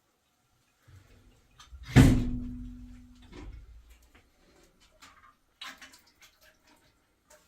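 A single loud bang about two seconds in, followed by a short ringing tone that fades over about a second, then scattered small clicks and knocks.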